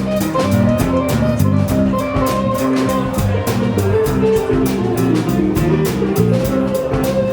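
Band music: a drum kit keeps a steady beat, with evenly spaced cymbal strokes over a moving bass line and guitar.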